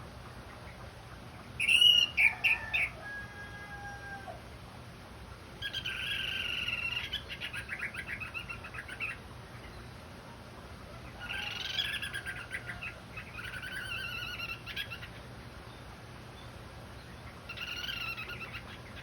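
Orange-headed thrush singing in separate phrases of chirps and whistles: a few loud, sharp notes about two seconds in, then longer warbled phrases with pauses of a couple of seconds between them.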